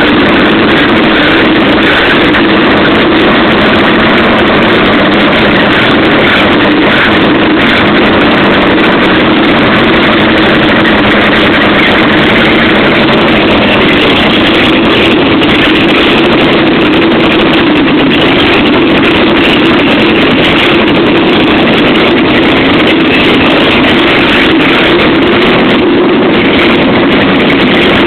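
Chevrolet Opala straight-six engine running steadily with no exhaust system fitted, a very loud, unmuffled open-port sound at an even speed.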